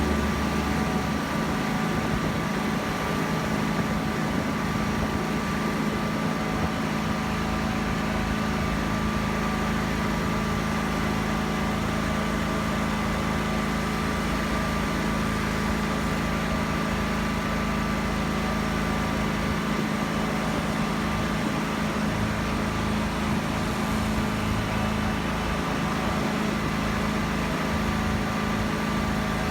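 A small engine running steadily at constant speed, its pitch unchanging throughout.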